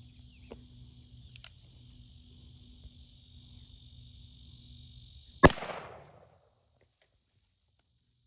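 A single shot from a Smith & Wesson 500 revolver firing .500 S&W Magnum, about five and a half seconds in, very loud with a short ringing tail. Before it, a steady high insect buzz.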